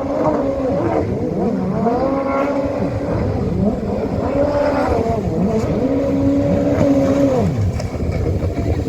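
Engines of two Ski GP1 stand-up personal watercraft racing side by side through a slalom. The overlapping engine notes rise and fall every second or so as the riders throttle up and back off through the turns.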